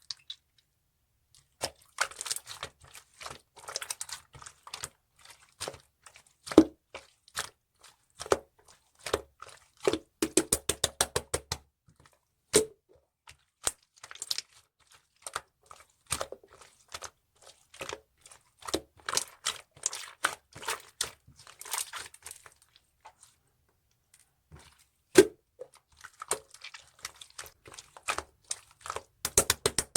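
Clear slime being pressed and pulled by hand, giving irregular sticky clicks, crackles and pops, with a quick run of clicks about ten seconds in and a short lull a little past the middle.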